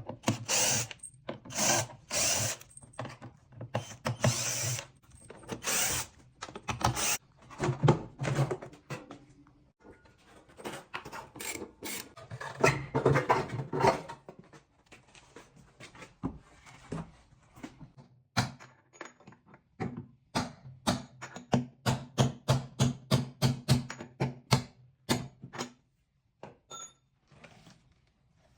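Hand and power tool work on a washing machine during a bearing replacement: loud irregular strikes and bursts of a power tool, then in the second half a fast even run of sharp knocks, about three a second.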